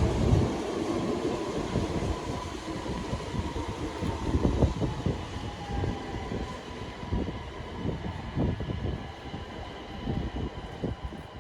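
DSB Litra SA S-train, an electric multiple unit, rolling along the track, its wheels knocking irregularly over rail joints and points above a low running rumble that gradually fades.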